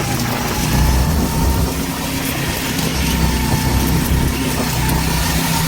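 Go-kart engines running steadily.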